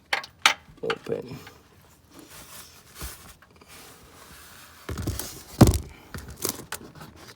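Metal clicks and knocks of a socket wrench being worked on a car's oil drain plug to loosen it, with a sharp knock about five and a half seconds in, the loudest sound.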